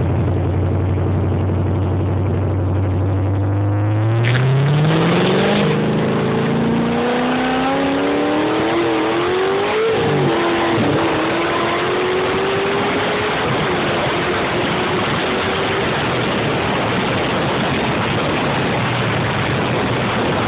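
Corvette V8 with 650+ rear-wheel horsepower, heard from inside the cabin through a phone's microphone: it runs low and steady, then accelerates hard from about four seconds in with a long rising pitch. The pitch drops at a shift about ten seconds in and climbs again more slowly, then the engine note fades into road and wind noise near the end.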